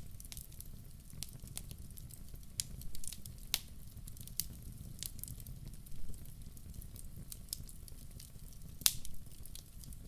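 Wood fire burning in a fireplace: a steady low rumble of flames with irregular sharp crackles and pops from the logs, one louder pop near the end.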